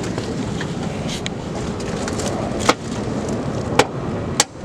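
Steady outdoor background noise, with three sharp clicks or knocks in the second half; the noise drops out briefly just after the last one.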